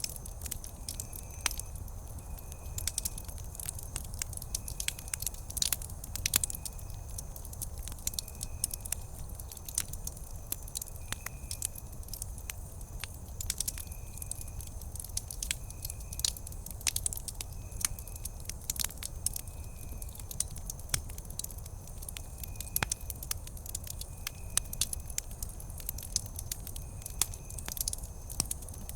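Campfire crackling and popping with irregular sharp snaps over a low steady rumble of the flames. A faint high chirp repeats about every second and a half.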